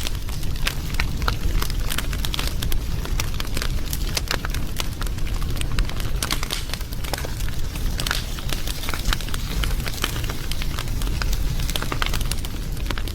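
Fire crackling, with many irregular sharp pops over a steady low rumble.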